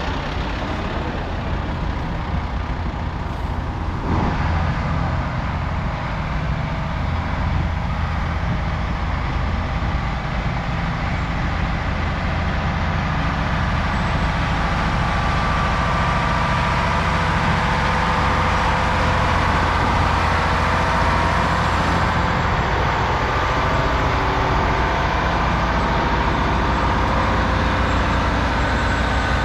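Heavy diesel truck engine running steadily at low speed, a constant low rumble.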